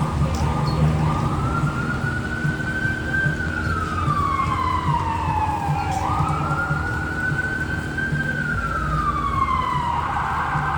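Emergency vehicle siren wailing in slow cycles: the pitch climbs, sinks over a few seconds, jumps back up about six seconds in and sinks again. A steady low traffic rumble lies underneath.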